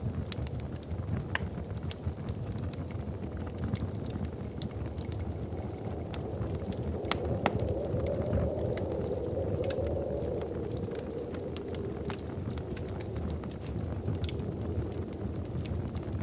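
Wood fire crackling in a fireplace: irregular sharp pops and snaps over a steady low rumble of burning, which swells a little around the middle.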